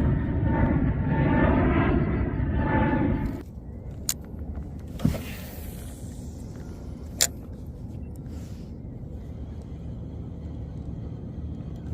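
Loud engine drone with a slightly wavering pitch that stops abruptly about three and a half seconds in, leaving a quieter steady background broken by a few sharp clicks or knocks.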